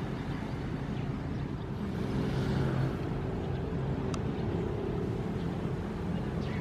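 Ocean surf: a steady low rumble of waves, with one wave swelling and washing in about two seconds in.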